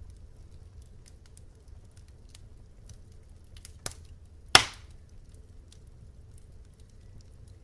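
Wood fire crackling, with a low steady rumble under many small irregular crackles. About halfway through come two sharp pops less than a second apart, the second one the loudest.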